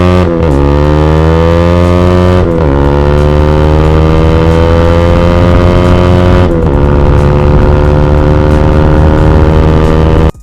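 Bajaj NS200's single-cylinder engine through an aftermarket Akrapovic exhaust, accelerating at full throttle. It revs up in each gear, with three upshifts about a quarter second, two and a half seconds and six and a half seconds in, then climbs again until it cuts off abruptly near the end.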